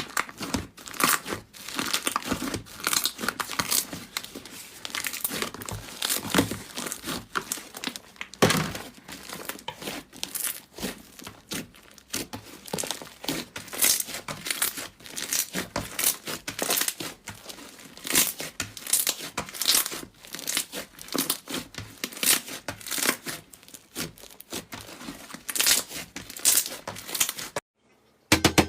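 Slime being squeezed and stretched by hand, giving a dense, irregular stream of crackling and crinkling pops that stops abruptly about a second before the end.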